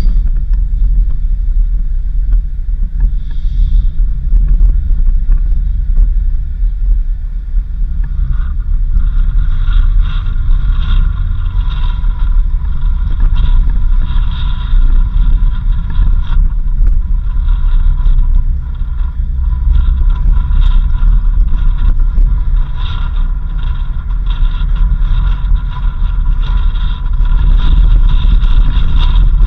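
A vehicle driving along a road: a steady low rumble of engine and tyres. From about eight seconds in, a steady high-pitched whine rides over it.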